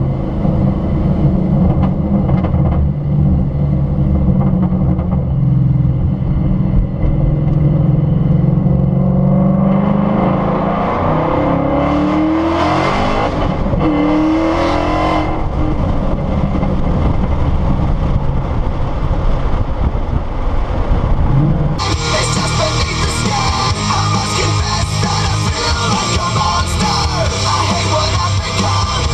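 Supercharged 2013 Mustang GT's 5.0 V8 running through an MBRP full race exhaust: a steady low drone, then revving up and back down twice around the middle before settling again. About seven seconds from the end the engine gives way abruptly to rock music with guitar.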